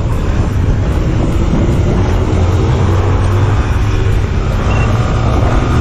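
Motorcycle engine running steadily at speed during a pursuit, with a constant low engine hum under the rush of wind and road noise.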